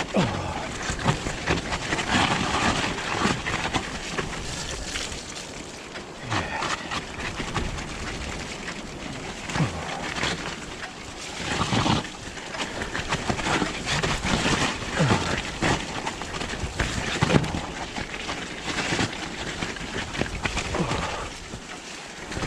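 Mountain bike ridden over a rough, muddy trail: irregular tyre and frame rattle with knocks from the bumps, mixed with strong wind gusting over the chest-mounted microphone.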